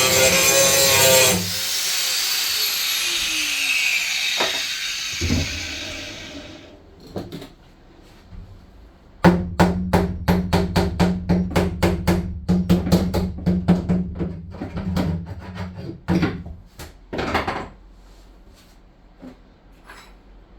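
A power tool runs loudly, then is let go and winds down with a falling whine over a few seconds. After a pause, a rapid run of sharp knocks, about three a second, goes on for several seconds.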